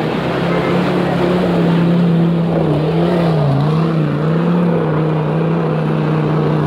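Off-road 4x4's engine held at high revs, its pitch wavering with a few small dips about midway.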